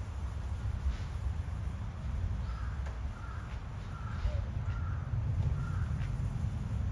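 A bird calls about five times in an even series, over a steady low rumble.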